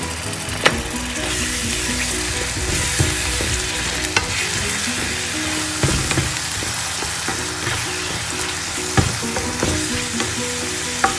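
Balado chili paste, thinned with a little water, sizzling in a nonstick pan as a black spatula stirs and scrapes through it, with a few light knocks of the spatula against the pan.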